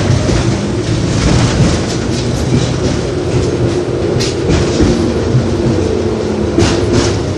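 LVS-86K articulated tram under way: a steady rumble of wheels on the rails with a hum, and a few sharp clacks over rail joints, one about four seconds in and two close together near the end.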